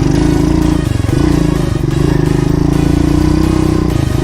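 Pit bike engine running steadily as it is ridden over muddy ground, its engine speed dipping briefly about a second in and again near the end.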